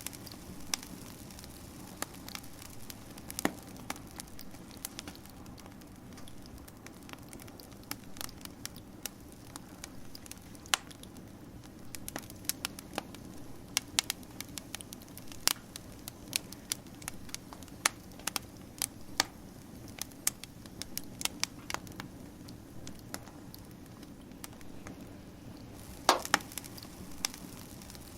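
Wood fire crackling: irregular sharp pops and snaps over a steady low hiss and rumble of the flames, with a quick cluster of louder pops near the end.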